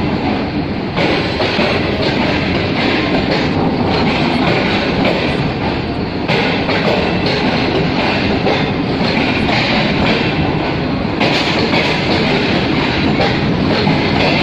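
Train running at speed on the rails, a steady rush of wheel and track noise with clickety-clack from the rail joints.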